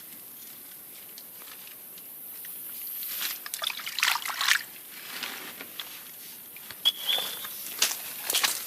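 Water trickling and dripping, with scattered crackles and a short high chirp near the end.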